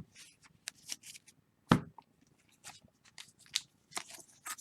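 Trading cards being handled and sorted on a table: scattered light rustles, slides and taps, with one sharper knock a little under two seconds in.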